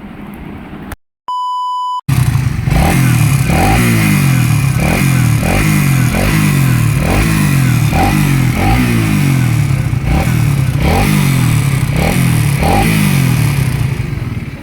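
A short electronic beep, then a Suzuki Raider 150 motorcycle engine revved over and over, the revs rising and falling roughly once or twice a second.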